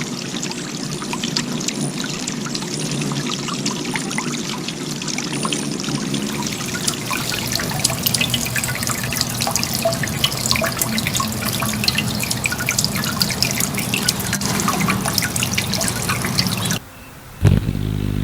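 Water trickling and splashing, with many small drips. It cuts off suddenly near the end, and a low steady hum follows.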